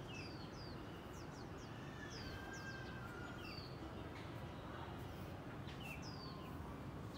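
Birds chirping: short, high notes that fall in pitch, repeated irregularly a few times a second, over a steady low background rumble.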